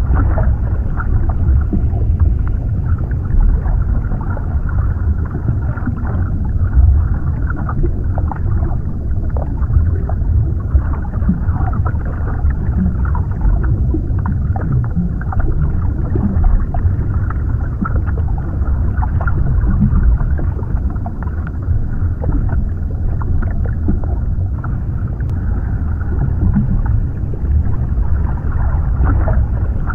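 Underwater ambience: a steady, deep wash of water noise, heaviest in the low end, with many faint short pops scattered through it.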